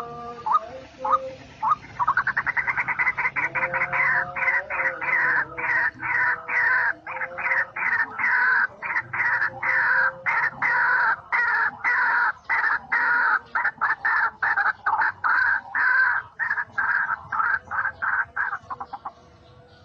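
White-breasted waterhen calling. A few single notes lead into a fast rattling run about two seconds in, which settles into loud, rhythmic repeated croaking calls, about three a second, that stop just before the end.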